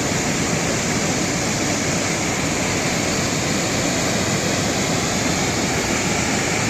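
Janggak Waterfall's water falling steadily, a constant rushing noise that does not change.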